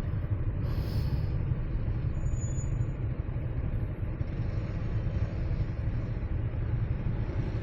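Motorcycle engine idling with a steady low rumble. There is a brief hiss about a second in, and a short high beep-like tone between two and three seconds in.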